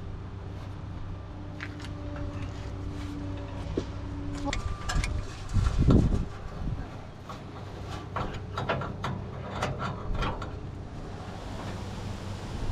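Sharp metallic clicks and knocks of hand tools on a truck, with a louder low thump about six seconds in, over a steady low hum.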